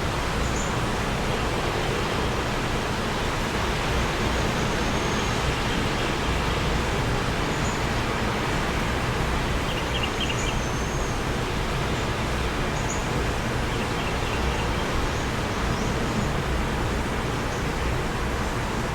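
Steady wind blowing, with a low rumble and a few faint, brief bird chirps now and then.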